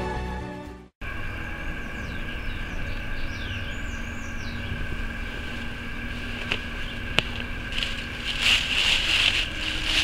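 Theme music fades out and cuts off within the first second. Steady outdoor ambience follows, with a faint steady hum, two sharp clicks around the middle, and louder rushes of noise near the end.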